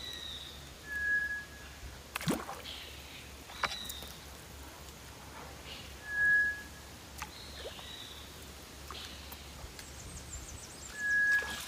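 A clear, steady whistled note, probably a bird's call, heard three times about five seconds apart. Fainter higher calls and a couple of clicks come in between the notes.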